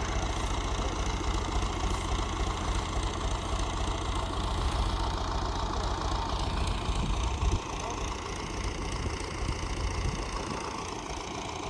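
An engine running steadily at a low, even pace, a little quieter from about seven and a half seconds in.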